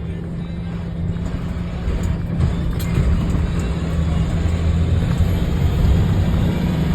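International 4300's DT466 inline-six diesel and road noise heard from inside the cab as the truck gathers speed, growing gradually louder.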